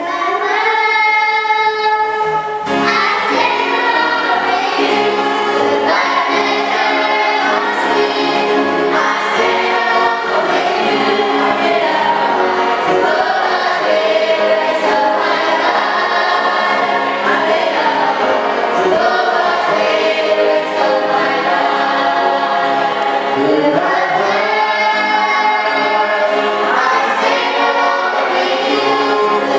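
Choir singing, with a held opening note before the fuller sound of the whole ensemble comes in about three seconds in.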